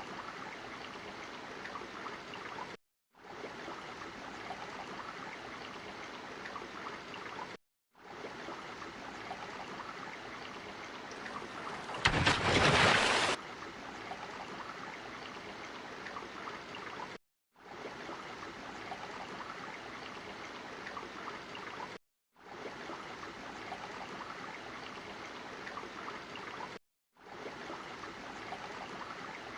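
Looped water ambience, a steady trickling and gurgling, broken by short dead silences every five seconds or so. About twelve seconds in, a much louder rushing burst of about a second.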